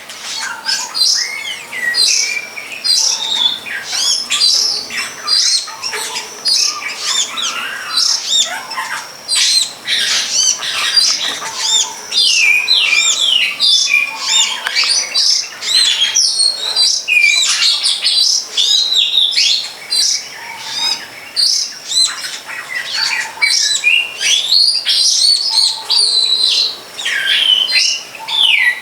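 Dense bird chirping and chattering: many quick, high, sweeping calls overlapping one another without a break.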